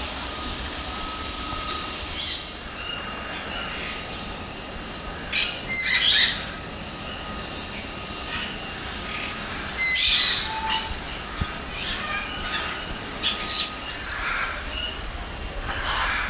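Birds calling and squawking, with two loud harsh squawks, one about six seconds in and one about ten seconds in, among scattered shorter chirps.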